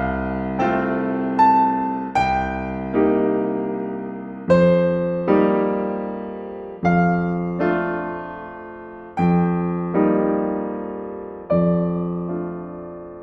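Solo piano playing a slow, gentle classical-style piece: chords and notes struck one at a time, each left to ring and fade before the next.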